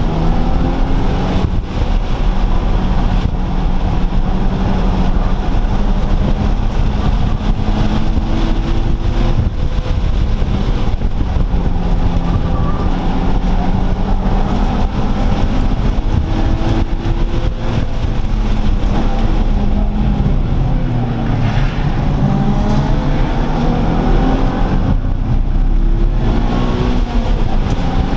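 Several car engines running and revving, their pitches rising and falling and overlapping throughout, over a steady low rumble.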